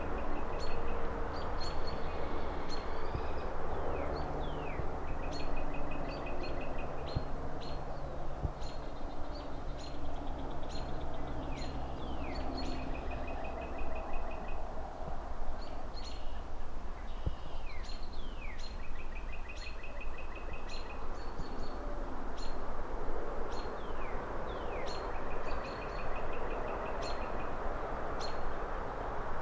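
Small birds singing and chirping, repeating the same short phrase every few seconds: a rapid trill, downward-sliding notes and sharp chips. Underneath runs a steady low rumble of distant city traffic.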